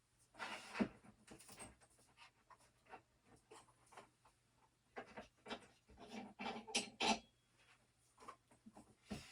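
Irregular rubbing, scuffing and light knocks, in bursts with quieter gaps, over a faint steady hum.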